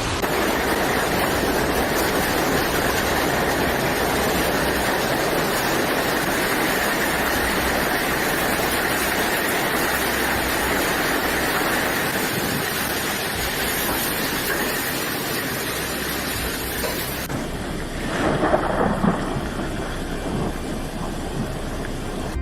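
Heavy rain pouring in a storm, a loud, steady hiss. About seventeen seconds in it changes abruptly to a duller noise with a few thumps.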